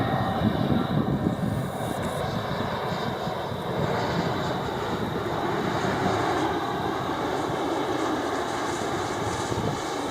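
Bombardier Global 6000 business jet's twin Rolls-Royce BR710 turbofan engines running steadily during its landing, a continuous jet rush with a low rumble under it.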